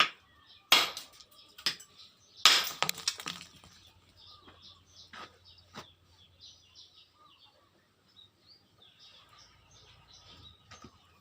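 Two sharp, loud knocks about a second apart near the start, each with a brief ring, followed by a few lighter taps. Faint bird chirping runs underneath.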